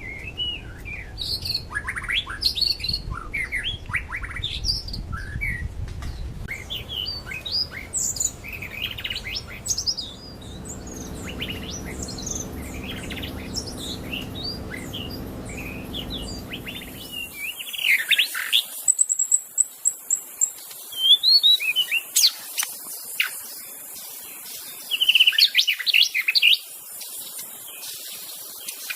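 White-rumped shama singing: a long run of varied, quick whistled phrases and chirps. A low background rumble stops suddenly about two-thirds of the way in, after which the song is louder and clearer.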